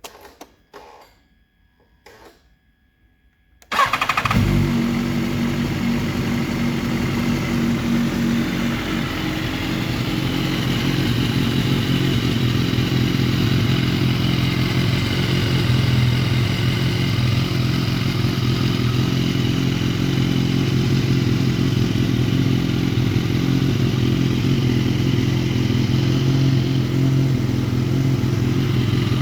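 A few faint clicks, then the 2010 BMW S1000RR's 999cc inline-four engine starts about four seconds in and settles into a steady idle.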